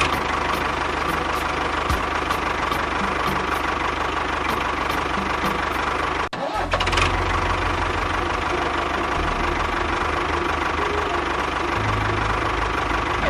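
A small engine running steadily, with a brief break about six seconds in before it carries on.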